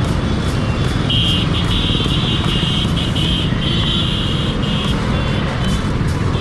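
Motorcycle riding through city traffic: steady engine and road rumble with wind on the microphone. A high beeping tone sounds from about a second in until near five seconds, stopping and starting several times.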